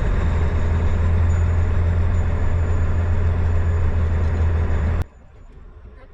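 Ford F-250 Super Duty's 6.7 L diesel engine running with a steady low hum, heard from inside the cab, cutting off abruptly about five seconds in.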